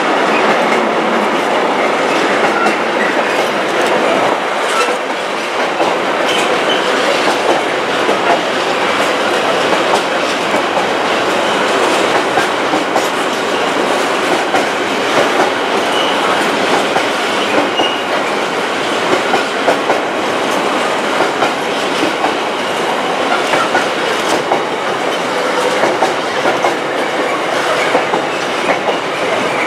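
Container freight train's wagons rolling steadily past close by, a continuous rumble broken by many short clicks and knocks of the wheels over the rail joints.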